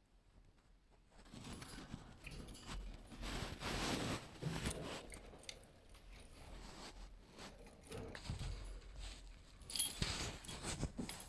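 Budgerigars moving about: scratchy rustling and clicking that starts about a second in, is loudest around a third of the way through and again near the end, with a few brief high squeaks near the end.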